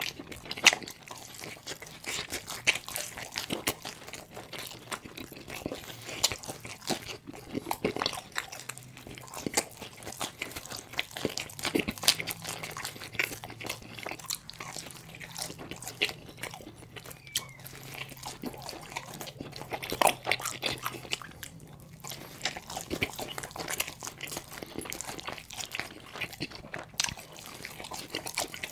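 A person biting and chewing pepperoni pizza close to the microphone, with irregular crunches of the crust throughout.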